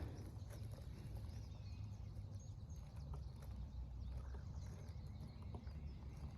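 Faint woodland ambience: a steady low rumble under scattered faint bird chirps and a few light ticks.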